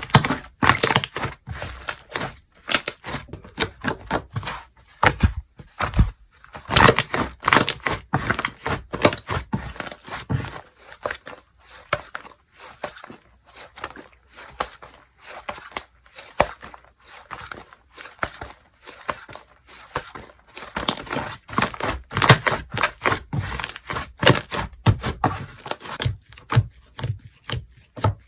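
Hands squishing, stretching and poking slime, making a dense run of quick sticky clicks and crackling pops.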